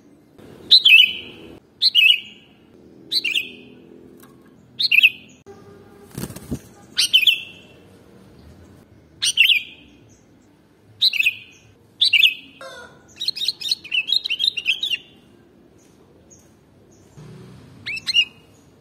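Sooty-headed bulbul (kutilang) calling: short, bright notes that drop in pitch, repeated every second or two, with a quick run of notes about thirteen to fifteen seconds in. A single knock about six seconds in.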